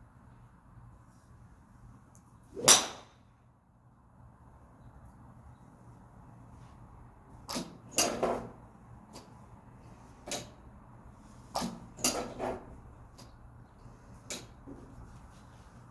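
Golf shots: one loud, sharp club-on-ball strike about three seconds in, then a run of about half a dozen quieter strikes in the second half, some in quick pairs.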